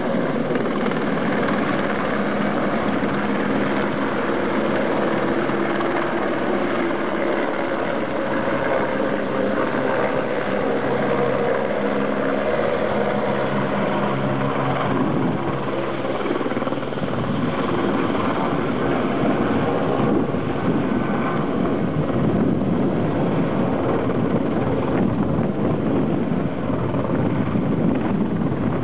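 Aérospatiale AS355F2 Twin Squirrel helicopter running loud and steady with its twin turbines and rotor, during its landing. About two-thirds of the way through, the steady low tones drop out and the sound turns rougher.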